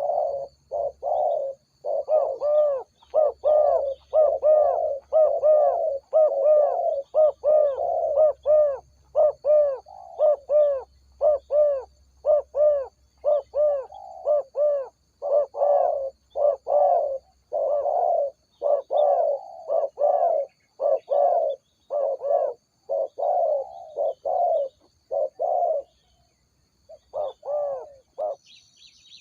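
Spotted dove cooing: a long, fast run of short arched coo notes, about two a second, that pauses about 26 seconds in and resumes briefly near the end.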